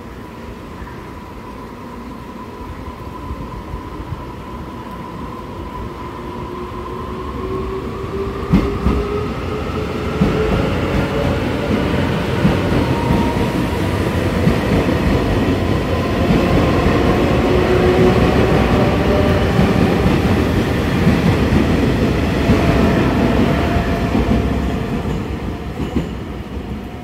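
Train accelerating: a whine rising in pitch over a rumble that grows louder, then fades near the end.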